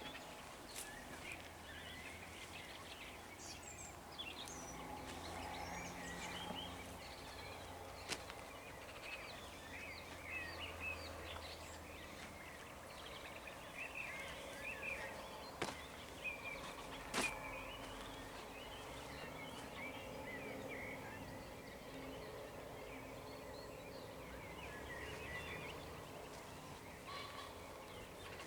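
Dawn chorus of many songbirds over meadows: overlapping chirps, trills and warbles throughout, over a low steady background hum. A few sharp clicks cut through, the loudest about two-thirds of the way in.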